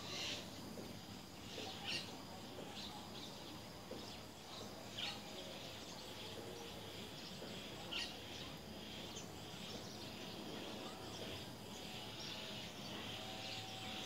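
Faint outdoor ambience: a steady high hiss with a few short, sharp bird chirps scattered through.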